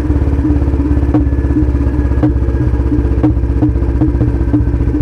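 Royal Enfield Bullet 350's single-cylinder engine running loud through a free-flow L-bend exhaust after a downshift, with a steady thudding beat and sharp cracks every half second or so: exhaust pops on the overrun.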